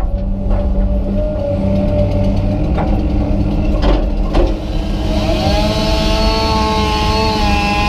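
Komatsu PC200 excavator's diesel engine running steadily under load, with a couple of sharp knocks or cracks around three and four seconds in. About five seconds in, a set of steady, slightly wavering whining tones comes in over the engine.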